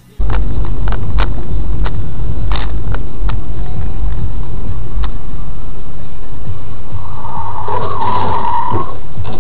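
Car dashcam audio: heavy, loud road rumble with several sharp knocks in the first five seconds, then a high squeal lasting about a second near the end.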